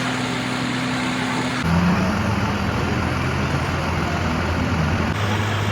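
Steady engine hum and traffic noise, with the tone of the hum changing abruptly twice.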